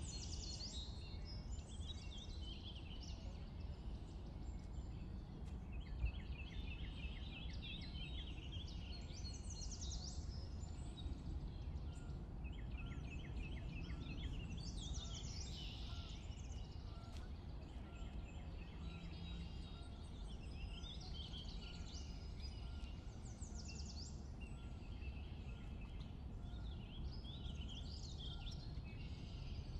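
Quiet outdoor ambience: small birds chirping and singing in short trills, over a low steady background rumble.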